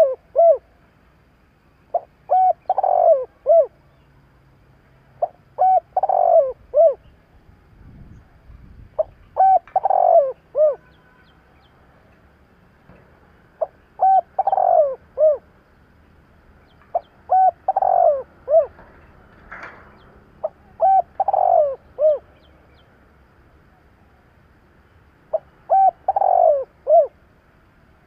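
Spotted dove cooing: a repeated phrase of a couple of short hoots, a longer falling coo and a final short hoot, given about every three to four seconds. This is the insistent calling used to provoke a decoy dove.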